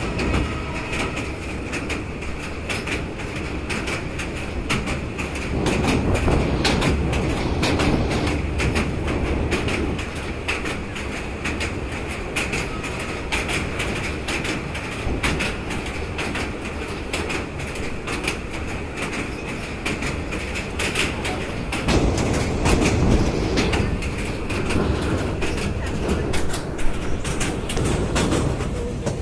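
Passenger train running at speed, heard from inside a coach by an open window: a steady rumble with fast, dense wheel clatter over the rails, swelling louder twice.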